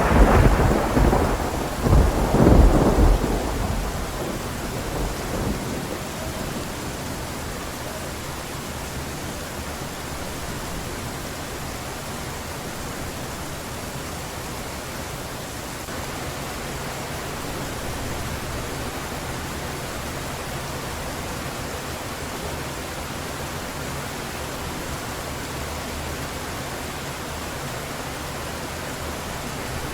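A thunder rumble dies away over heavy rain, swelling once more about two seconds in and fading out by about four seconds. After that the rain falls steadily.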